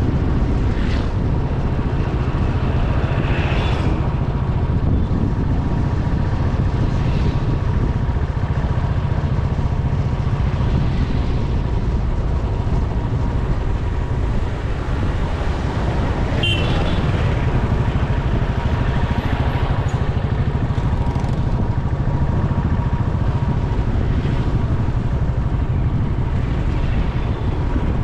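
Motorcycle riding through city traffic: a steady low rumble of wind on the microphone over the running bike, with a couple of short, higher-pitched sounds from the traffic.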